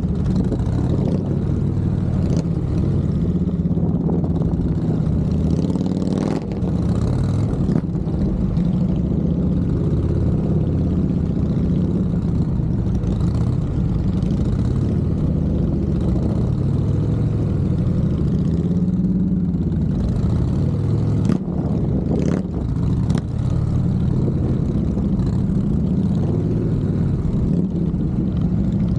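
Motorcycle engine running at low revs, its pitch rising and falling gently as the throttle is worked, with a few sharp clicks in the second half.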